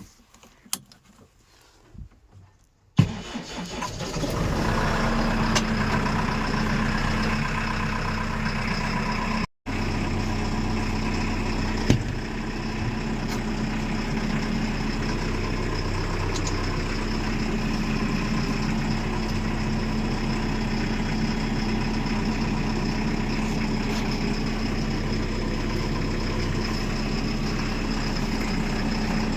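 Diesel engine of a JCB backhoe loader starting about three seconds in, then running at a steady idle.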